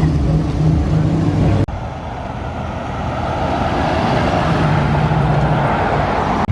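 Car engine idling with a deep, steady rumble, then after an abrupt cut about one and a half seconds in, a rushing engine sound that slowly grows louder.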